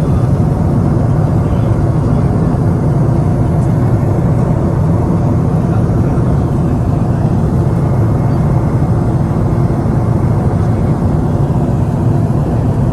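Steady, loud airliner cabin noise: the low engine and airflow hum of a jet heard from inside the passenger cabin.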